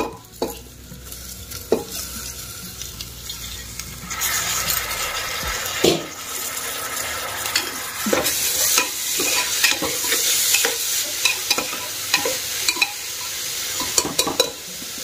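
Washed black urad and chana dal hitting hot oil and onions in an aluminium pressure cooker, then stirred with a steel spatula. A sizzle grows louder about four seconds in, with repeated scrapes and clicks of the spatula against the pot.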